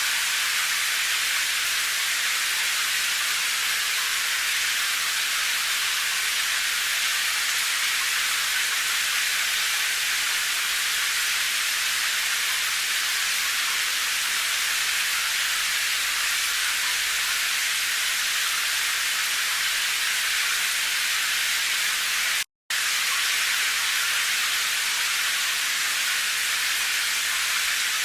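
Steady, even hiss of heavy rain, with no individual drops or thunder standing out. The sound cuts out completely for a split second about 22 seconds in, then resumes unchanged.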